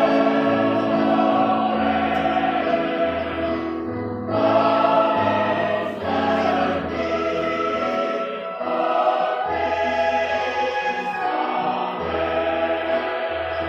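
Choir singing a sacred piece in parts, sustained chords over low bass notes, phrases breaking off every couple of seconds.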